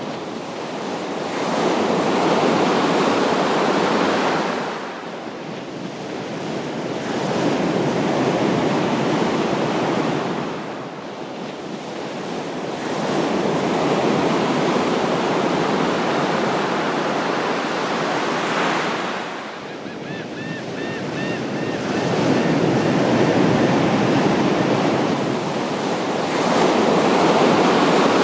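Ocean waves breaking and washing in slow, even swells, with four surges that rise and fall about every six to seven seconds.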